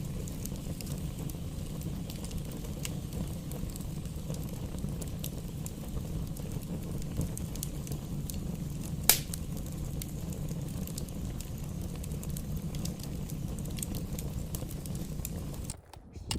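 Campfire burning: wood crackling in many small sharp pops over a steady low rumble, with one loud pop about nine seconds in. The sound cuts off abruptly near the end.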